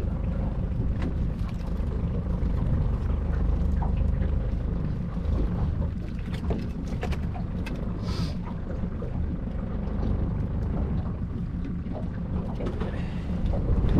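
Small boat's outboard motor running steadily at low speed, with a short hiss of spray or wind about eight seconds in.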